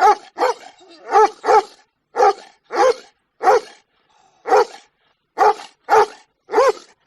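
A dog barking: about eleven short, pitched barks, loud and irregularly spaced, with brief pauses between them.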